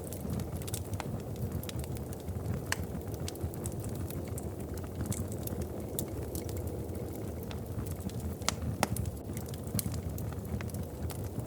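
Wood fire crackling in a fireplace: irregular sharp pops and snaps over a steady low rumble of burning, with a louder pair of pops near the nine-second mark.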